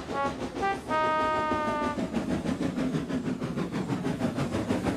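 A steam locomotive whistle blows one held note lasting about a second, over the steady running of a steam engine along the track. Two short tones sound just before it.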